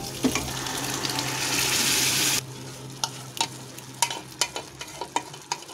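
Hot fried masala sizzling loudly in a pan as cooked dal is tipped in from the pressure cooker. The sizzle builds, then cuts off abruptly about two and a half seconds in, followed by a run of sharp clicks and knocks of a spoon against the metal cooker and pan.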